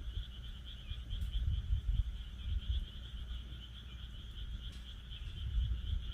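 Wood fire in a fire pit crackling with a few sharp pops, over a steady, high, pulsing chorus of frogs calling and a low uneven rumble.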